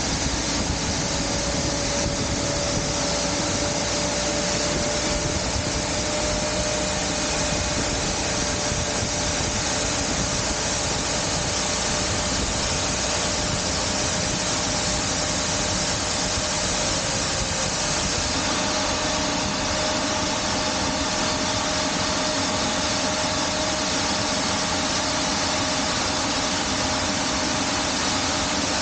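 Steady, loud rushing noise of an Embraer 175 regional jet on the ramp during pushback, with a faint steady tone running through it.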